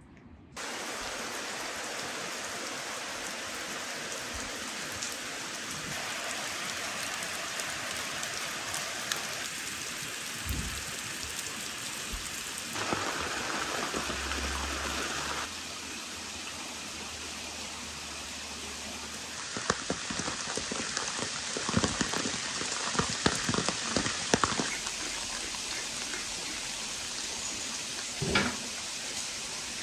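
Steady rain falling, with a run of sharp taps of heavy drops hitting leaves and hard surfaces in the second half and a single short knock near the end.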